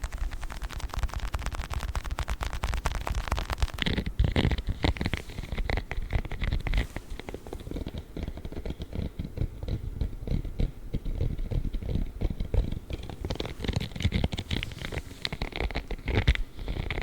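Close-miked handling of a small children's ball: fast, fine scratching and crackling. About four seconds in, this gives way to a spiky glove being rubbed and scratched in slower, irregular strokes.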